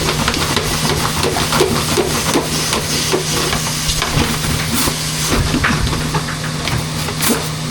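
Dryer-vent cleaning vacuum running steadily with a constant hum and hiss, while a brush on a rod is fed through the vent duct, rattling and knocking irregularly against the duct walls.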